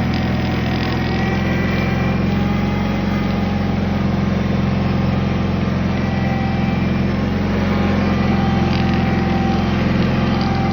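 1981 Cub Cadet 782 garden tractor's engine running steadily at an even speed.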